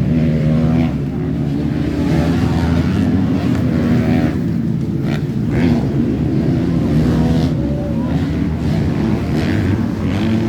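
Motocross bike engines running and revving, the pitch rising and falling as the bikes ride the track.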